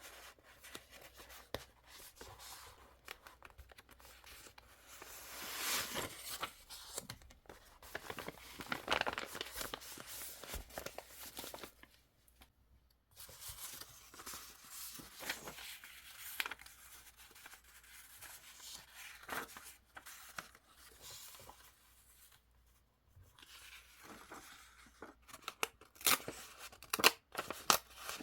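Paper being handled close up: irregular rustling and tearing with crisp snips and small taps, broken by brief pauses.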